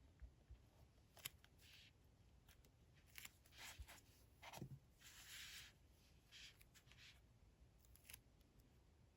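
Faint paper handling at a desk: a few light clicks and several short rustling strokes of paper.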